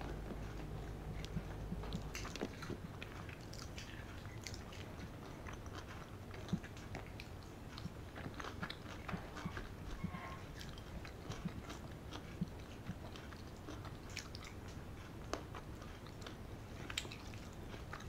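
A person chewing a mouthful of rice and curry with lips closed: soft, irregular wet clicks and smacks over a steady low hum.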